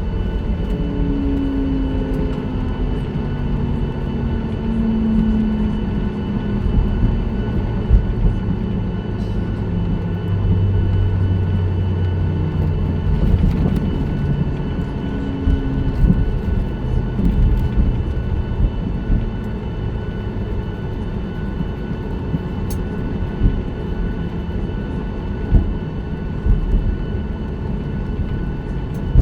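Cabin noise of a Boeing 737-9 MAX: a steady engine hum over a low rumble. A tone falls slowly in pitch over the first few seconds, and irregular light knocks and bumps come through the airframe.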